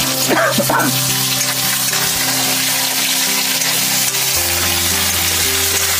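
Vegetable curry sizzling steadily as it fries in a pan on a small portable gas stove, with a brief clatter of stirring about half a second in. Background music with held notes plays underneath.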